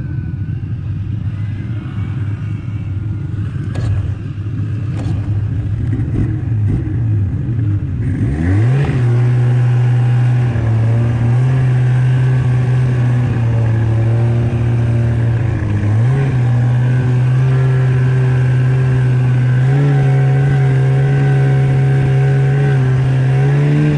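Snowmobile engine running unevenly at low revs, then revving up about eight seconds in and holding a steady, loud drone under way. The pitch rises again a little near 16 and 20 seconds.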